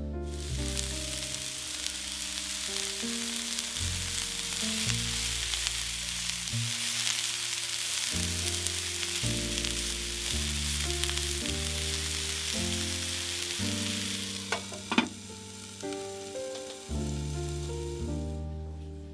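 Food frying in hot oil in a pan: a steady sizzle that dies away near the end, with a couple of sharp clicks about fifteen seconds in.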